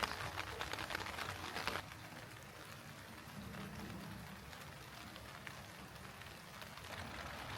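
Heavy rain falling, with many individual drops ticking and pattering. It drops abruptly to a softer, lower level about two seconds in and grows louder again near the end.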